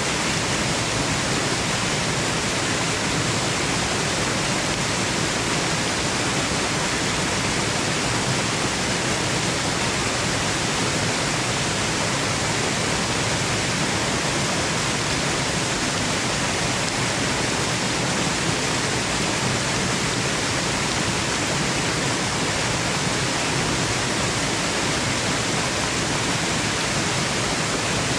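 Waterfall: rushing, falling water making a steady, unbroken roar of noise with no changes or separate splashes.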